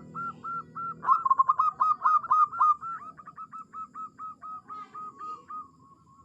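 Zebra dove (perkutut) singing: a rapid run of short, arched cooing notes, about four a second. The notes are loudest and most crowded from about a second in to three seconds, then fade away near the end.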